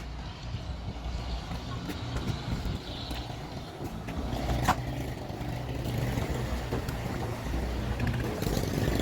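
An engine running steadily with a low drone, and a single sharp click about halfway through.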